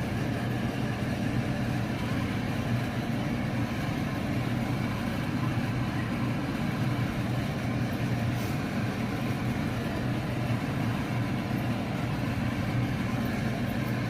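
Steady low mechanical hum over a constant noise, with no distinct events.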